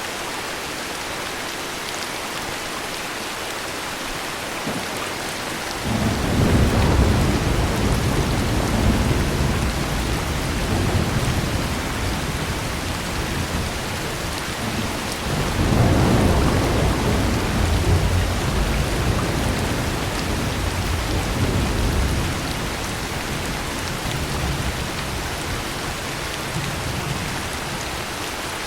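Steady heavy rain with a long roll of thunder that breaks in suddenly about six seconds in, swells again about halfway through, then rumbles away.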